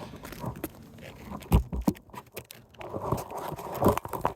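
Scattered scrapes, rustles and clicks with two dull thumps about a second and a half in, from someone moving about and handling things on a shingle roof.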